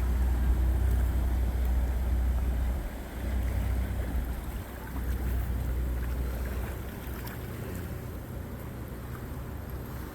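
Passing motorboats: a low engine drone with water wash, loudest in the first few seconds and fading over the rest.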